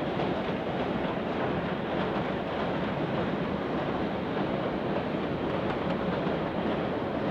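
Train running along the line, a steady rumble of wheels and carriages with no clear beat.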